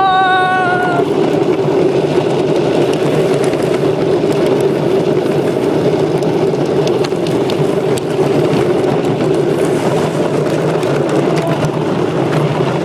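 Small mini motorbike engine running steadily while being ridden downhill. A short high-pitched tone sounds in the first second.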